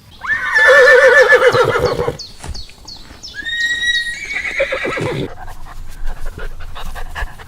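Horse whinnying: a long, loud, quavering whinny, then a second call about three seconds in, followed by scattered light knocks.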